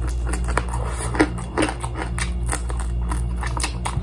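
A person chewing and biting crispy fried chicken close to the microphone: irregular crunches and mouth clicks, over a steady low hum.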